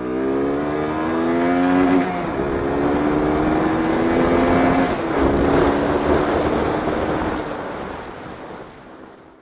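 Motorcycle engine accelerating and shifting up, its pitch rising and then dropping at gear changes about two and five seconds in, with a rushing noise that grows before the sound fades out near the end.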